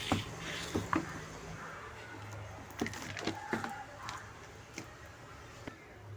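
Scattered sharp clicks and taps from small objects handled on a repair bench, about nine in all and loudest in the first second, over a low steady electrical hum.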